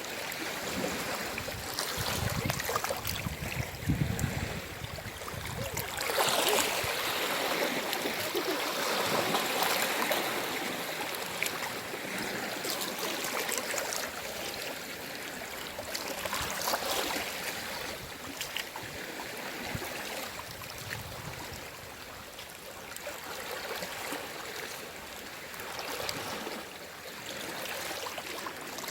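Small sea waves washing in and drawing back on the shore, swelling and easing every few seconds, with a light fizzing crackle as the water runs back.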